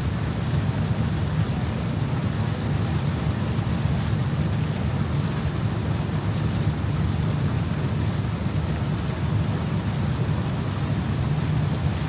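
Steady low rumble of wind buffeting the microphone, with water rushing along the hull of a moving boat.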